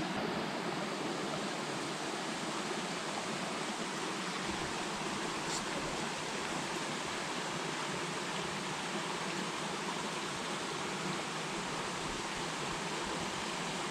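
Small creek flowing steadily, an even rushing hiss of running water.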